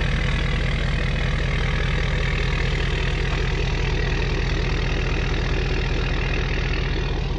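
Ford 6.7 L Powerstroke turbo-diesel V8 idling steadily through a new 4-inch stainless steel DPF-back exhaust, on a truck with its DPF deleted.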